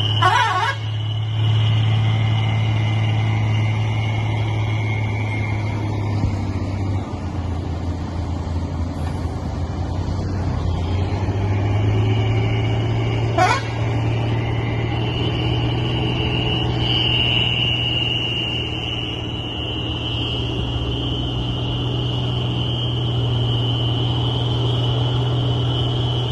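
Old heavy cargo truck's diesel engine running steadily, with a steady high whine over it. The engine note dips about a quarter of the way in and picks up again near the middle, and a brief sharp sound comes about halfway.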